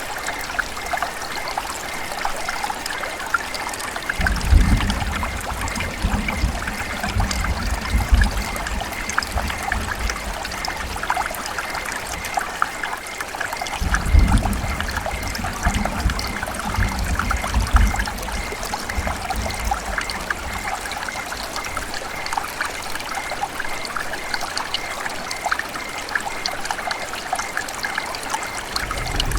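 River water running and trickling: a steady rush full of small splashes. A low rumble comes in twice, about four and fourteen seconds in, each lasting a few seconds.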